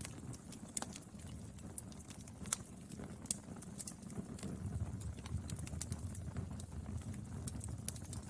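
Wood fire burning, with a steady low rumble of flame and irregular crackles and pops from the burning wood.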